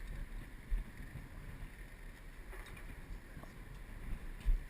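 Wind buffeting the microphone as a low, steady rumble, with two dull low thumps: one about a second in and a louder one near the end.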